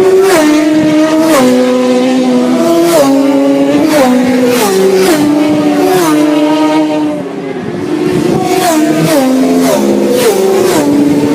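Superbike engine running hard at high revs, its pitch stepping up and down as gears change every second or so. It eases off briefly about seven seconds in, then pulls hard again.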